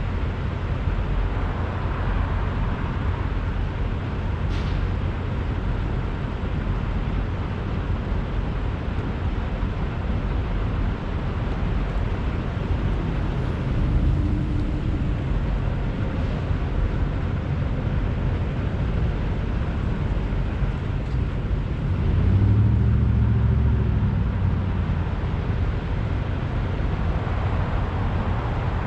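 Steady low rumble of semi-truck diesel engines running, with a louder swell for about two seconds some 22 seconds in.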